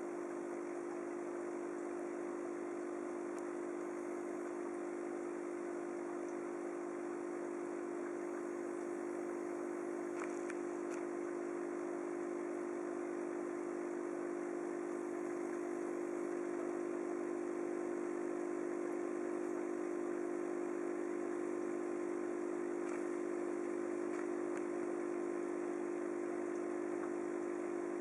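Aquarium pump running with a steady low hum over a faint even hiss of moving water.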